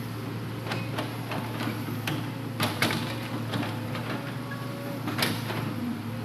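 Hitachi Zaxis 200-5G excavator's diesel engine running steadily under a string of irregular knocks and clunks as logs are loaded, the sharpest about two and a half to three seconds in and again past five seconds.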